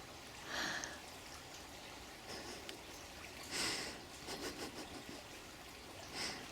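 Steady trickle of running water, with three short breathy exhalations about half a second, three and a half and six seconds in, as in silent laughing or whispering.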